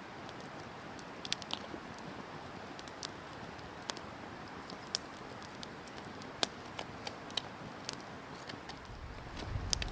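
Wood campfire burning with a steady hiss and irregular sharp crackles and pops, about one or two a second. A low thud or rumble comes near the end.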